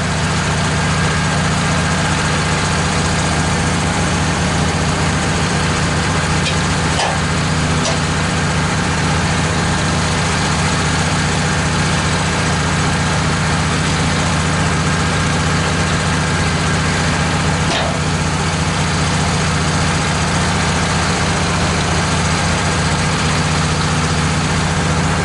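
Engine of a Wood-Mizer LT15 portable bandsaw mill running at a steady, unchanging speed, with a couple of faint clicks.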